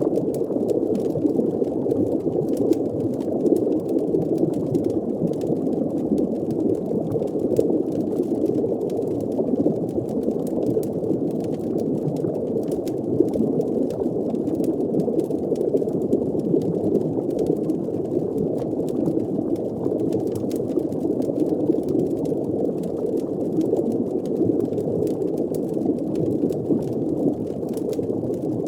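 Steady, muffled underwater ambience: a dense low rumble of water with bubbling, and faint scattered crackling ticks throughout.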